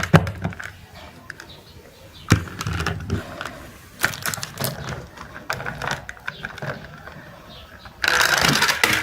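Hard knocks and clicks of objects striking one another, a few seconds apart, then a louder rattling clatter lasting about a second near the end.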